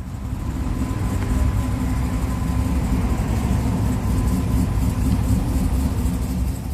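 A vehicle engine running with a steady deep rumble, swelling over the first second and fading near the end.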